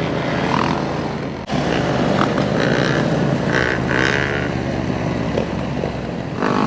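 Motorcycle engines running and revving at close range, with a sharp break about a second and a half in. Several short high tones sound between about two and a half and four and a half seconds in.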